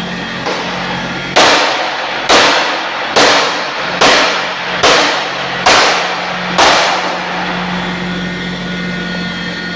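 Steady hum of a friction stir welding machine, broken by seven loud hissing bursts a little under a second apart, each starting sharply and dying away within half a second.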